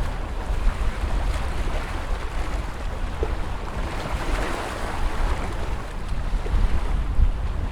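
Ocean surf: a steady wash of waves, with one wave swelling and breaking about halfway through. Wind buffets the microphone in a gusty low rumble.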